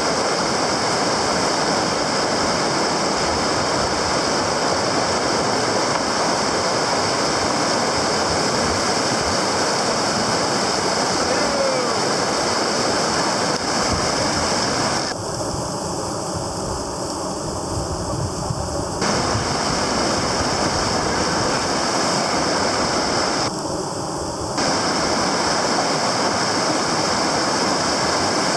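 Whitewater river rushing steadily. Twice the sound turns muffled and duller: for about four seconds just past the middle, and for about a second near the end.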